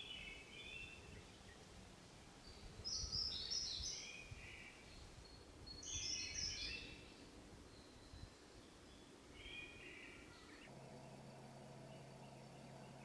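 Wild birds singing in short chirping phrases, about one every three seconds, over a faint background rumble. Near the end a steady low hum begins.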